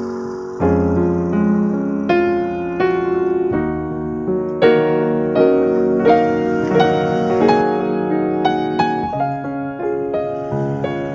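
Background piano music: a slow melody of single notes and chords, a new note struck roughly every second.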